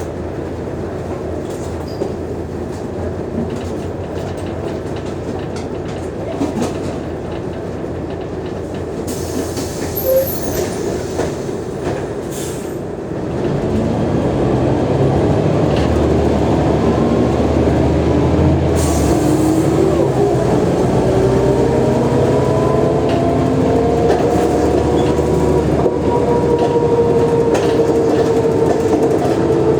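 Mercedes-Benz O345G articulated bus's diesel engine and driveline running. About halfway through, it gets louder and a whine climbs steadily in pitch as the bus accelerates, levelling off near the end.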